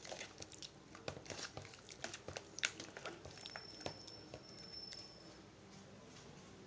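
Faint wet clicks and squelches of raw chicken being stirred and turned in a thick marinade of curd and nut paste in a bowl, thinning out toward the end.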